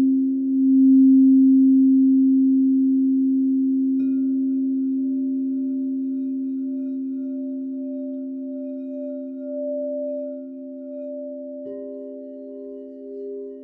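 Crystal singing bowls ringing together in several steady, slightly pulsing tones. A bowl is struck about four seconds in and another near the end, each adding a new tone over the ones still sounding.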